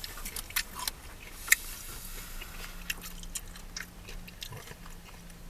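A person biting and chewing crispy fried calamari: close, crunchy crackles, thickest in the first two seconds and sharpest about a second and a half in, then fewer as the chewing goes on.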